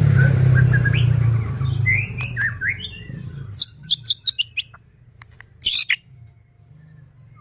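White-rumped shama (murai batu) singing: short whistled and gliding notes, then a quick run of sharp chirps and clicking rattles. A loud low hum runs underneath and stops about three and a half seconds in.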